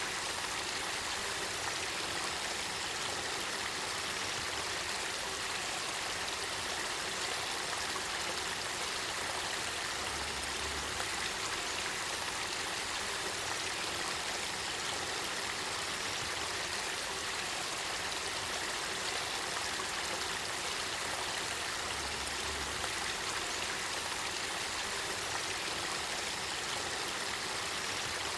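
Spring-fed river water running, a steady, unbroken rush of flowing water.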